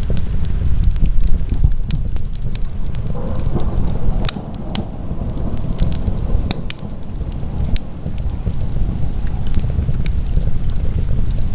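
Fire burning in a fireplace, crackling with many sharp, irregular pops over a steady low rumble.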